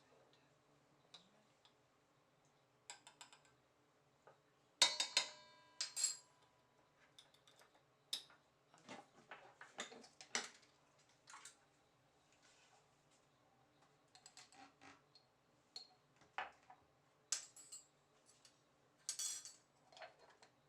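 Kitchen utensils and dishes clinking and knocking now and then, with one louder ringing metallic clink about five seconds in.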